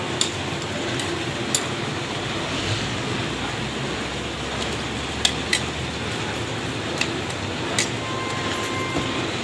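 Layered parathas sizzling in oil on a large flat iron griddle, a steady hiss, with about six sharp clicks of metal tongs tapping the griddle and the breads as they are turned.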